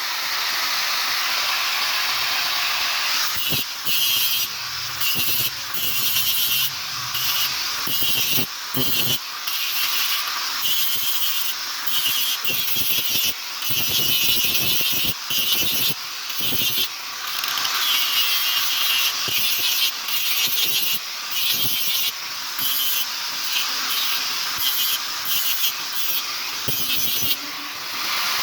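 Repeated rasping strokes of a hand tool worked against steel, each stroke under a second with short breaks between them.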